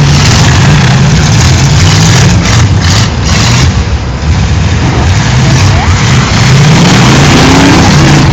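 Demolition-derby cars' engines revving hard, very loud, the engine pitch rising and falling, with a dense rough noise over it.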